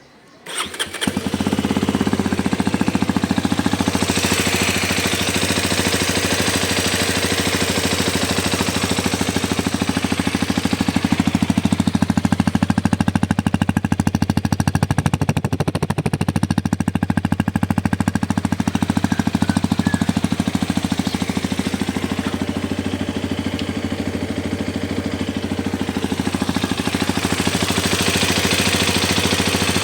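Hero Xpulse 210's single-cylinder engine starts about half a second in and then runs steadily with a fast, even knocking pulse, a knocking sound the owner reports from the new motorcycle.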